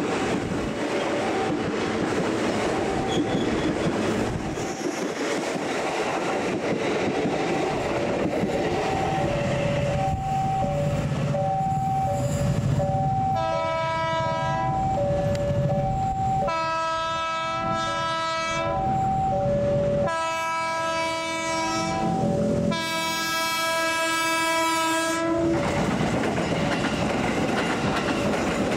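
KRL commuter electric trains running past on the rails with steady wheel and track noise. A level-crossing warning signal alternates between two tones. An approaching KRL sounds its horn in four long blasts about halfway through.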